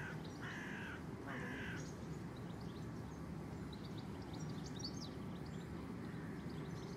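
A bird gives two harsh, crow-like calls in the first two seconds, then small birds chirp faintly around the middle, over steady low background noise.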